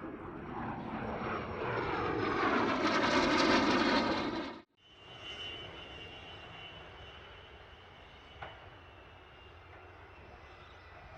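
Fixed-wing aircraft engine growing louder as the aircraft passes close, cut off abruptly about four and a half seconds in. After the cut, a quieter, steady aircraft engine sound with a thin high whine.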